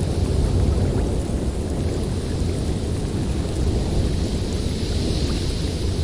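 Blizzard wind blowing steadily: a deep, continuous rush with a fainter hiss above it.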